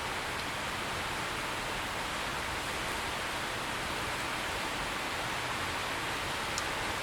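Steady rain falling, an even continuous hiss with no thunder, and one faint tick near the end.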